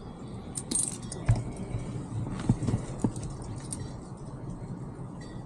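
Small metal pieces jingling and clinking in short scattered bursts, with a few soft clicks.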